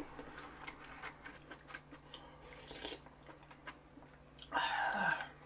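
Close-miked chewing of food, with many small wet clicks, and a louder, noisier burst about four and a half seconds in.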